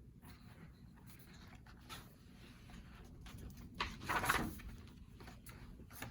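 A paper page of a picture book being turned: a short rustle about four seconds in, with a few faint handling clicks around it.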